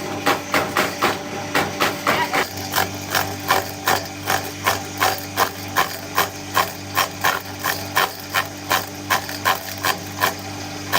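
Banana-trunk slicing machine running: a steady motor hum under an even knocking of about three knocks a second.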